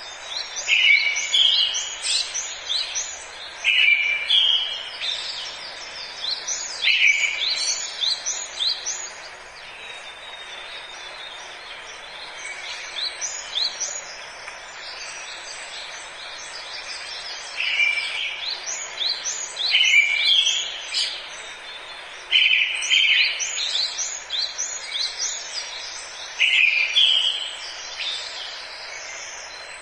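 Several songbirds singing in a forest, short chirping phrases repeating every second or two, with a quieter stretch in the middle. A steady hiss runs beneath the song.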